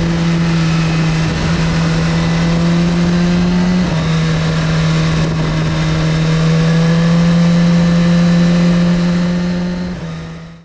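2017 Suzuki GSX-R1000R's inline-four engine heard on board, running at a steady pitch with a brief dip about four seconds in, then slowly rising. The sound fades out near the end.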